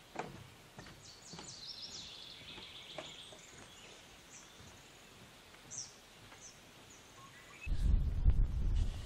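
Songbirds trilling and chirping in the woods, with a few faint footsteps early on. Near the end a loud low-pitched noise sets in and drowns out the rest.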